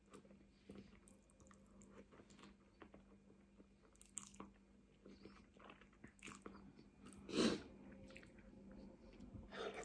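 Close-up mouth sounds of eating spaghetti bolognese: quiet chewing and small wet clicks as noodles are slurped and chewed, with one louder, short noisy sound about seven and a half seconds in.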